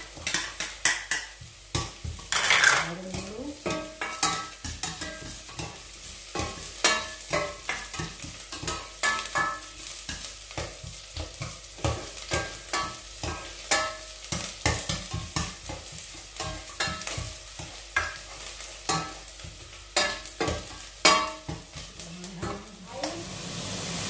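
Onion and garlic sizzling in oil in a stainless steel saucepan while a wooden spatula stirs them, scraping and knocking against the pot several times a second.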